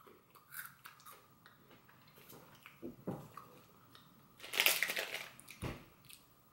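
Quiet crunching and chewing of a milk-chocolate-covered hazelnut wafer bar, in small scattered crackles, with a louder crackling rustle of its foil wrapper about four and a half seconds in.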